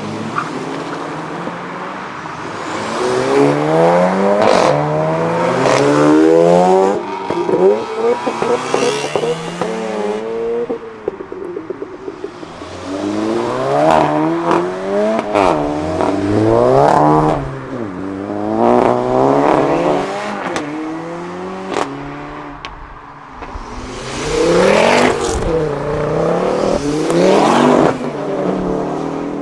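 Several modified sports cars and hot hatches accelerating hard one after another, their engines revving up through the gears with pitch rising and dropping back at each shift. A few sharp cracks come over the engine sound.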